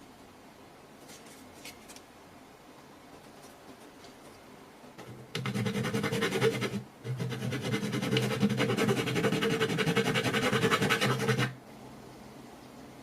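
A small electric power tool motor runs in two bursts, a short one of about a second and a half and then, after a brief pause, a longer one of about four seconds, with a steady hum and a fine rapid rattle.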